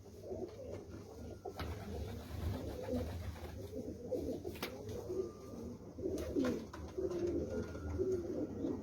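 Several domestic pigeons cooing, low overlapping coos with no break, with a few sharp clicks in between.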